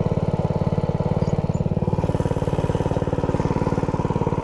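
Minibike's 212 cc single-cylinder engine idling steadily through an aftermarket exhaust, with an even, rapid firing beat.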